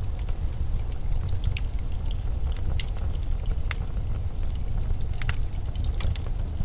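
Blizzard wind blowing as a steady low rumble, with scattered sharp crackles and ticks.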